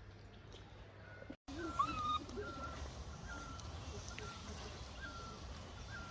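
Baby monkey calling: after a brief cut about a second and a half in, a high short squeak repeats roughly every two-thirds of a second, mixed with a few louder cries that rise and then fall in pitch.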